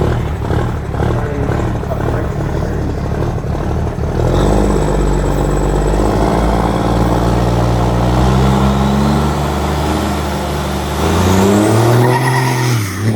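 Drag-racing truck engine rumbling, then about four seconds in it launches and pulls hard, its pitch climbing slowly through the run. Near the end the note drops and falls away as the truck comes off the throttle.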